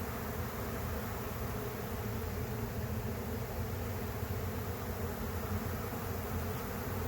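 Steady, dense buzzing hum of a honey bee swarm in flight: thousands of bees that have just left the hive, circling in the air before settling.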